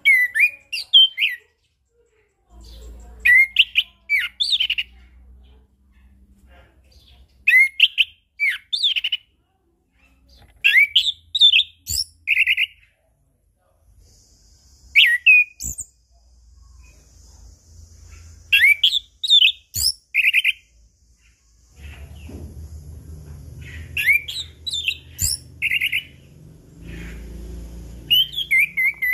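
Chestnut-capped thrush (anis kembang) singing in full voice: a short phrase of quick rising and falling whistled notes, mixed with buzzy notes, comes every three to four seconds. A faint low rumble sits underneath.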